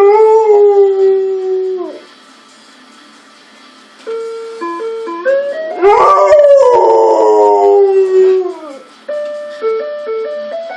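A dog howls twice along with a doorbell playing a chime tune. Each howl rises, holds for two to three seconds and drops off at the end. Between and under the howls the doorbell's melody plays as short stepped notes.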